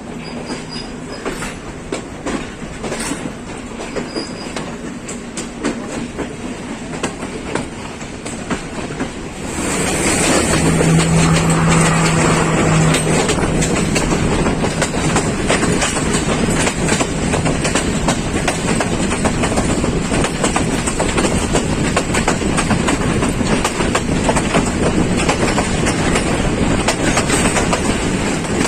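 Passenger train running along the track, its wheels clattering over the rails in a continuous stream of clicks. About ten seconds in, the noise jumps louder and fuller and stays that way.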